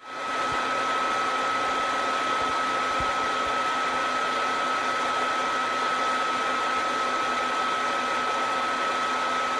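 Under-bed ventilation fans of a Brinkley RV, cheap computer case fans screwed straight to the wood, running with a steady loud whir and a strong high whine over a low hum. This is the annoying bedroom noise, which the owner puts down to vibration and harmonics from the fans or their mounting coming through the wood.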